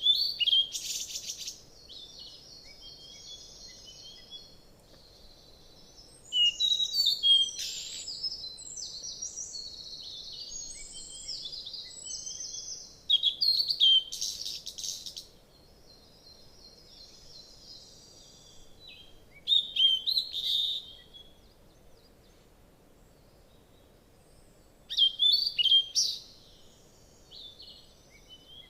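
Small wild birds chirping and twittering, in five loud bursts of a second or two each with softer chirping in between.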